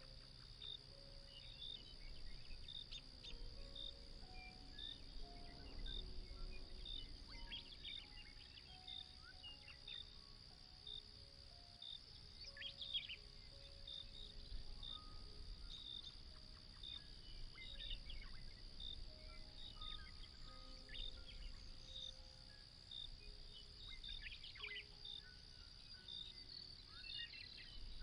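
Night-time ambience of crickets chirring steadily with a regular chirp about once a second and occasional short falling chirps, over soft, slow background music of sustained notes.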